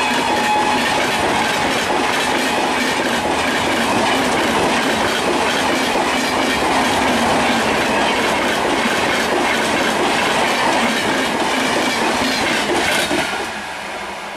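Passenger coaches of an express train rushing past at high speed, the wheels clattering steadily over the rail joints. The noise drops off suddenly near the end as the last coaches go by.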